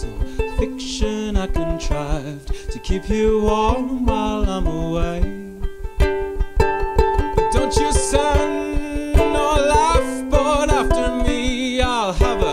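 Live band music: plucked strings over a steady beat, with a voice singing.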